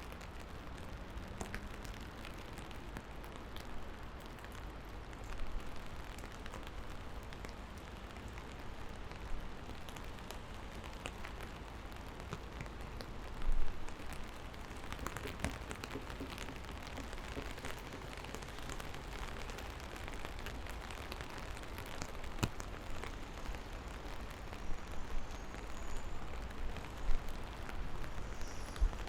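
Steady rain falling, with scattered individual drops ticking and splashing over the hiss, and one louder knock about thirteen seconds in.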